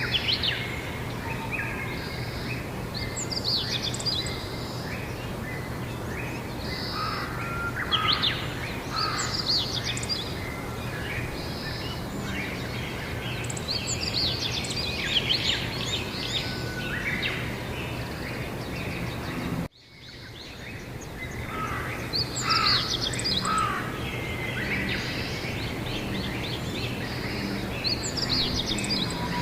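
Songbirds chirping and singing in short repeated phrases over a steady outdoor background noise with a faint low hum. About two-thirds of the way through the sound cuts out abruptly and fades back in, then the birdsong continues.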